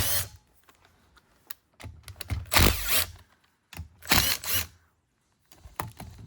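A power driver run in short bursts, loosening the screws of an old Honda CR80 engine case: three or four brief runs with pauses between.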